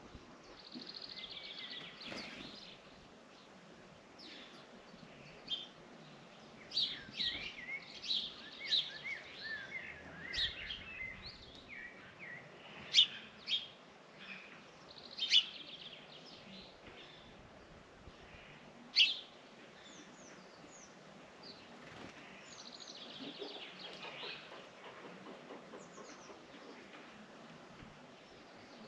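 Small birds chirping and twittering, many short high notes overlapping, with a few sharp loud chirps near the middle.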